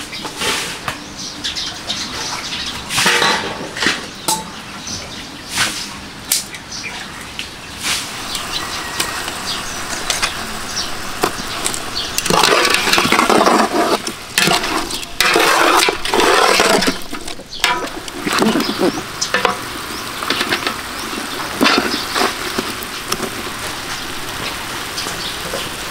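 Pieces of pig's head sizzling in a steel pot of thick seasoning sauce as it cooks down, turned with metal tongs that clack and scrape against the pot. There is a stretch of louder clattering about halfway through.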